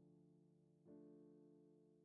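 Soft, slow piano music: one chord rings out and fades, and a new chord is struck about a second in and left to decay.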